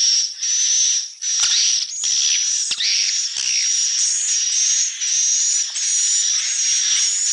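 Swiftlets calling in a dense, continuous chorus of shrill, hissy twittering chirps, about two bursts a second.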